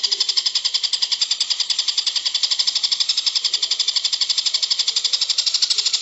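Recorded bird song: a fast, even trill of high, buzzy notes, about ten a second, running without a break.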